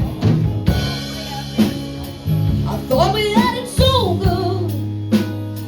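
Live band playing a song: drum kit hits over sustained bass notes and guitar, with a lead vocal line coming in about halfway through.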